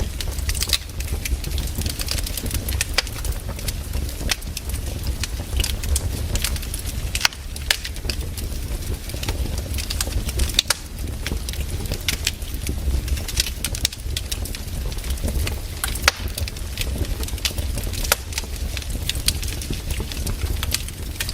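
Firewood burning: a steady low rumble of the fire with irregular crackles and sharp pops, several every second.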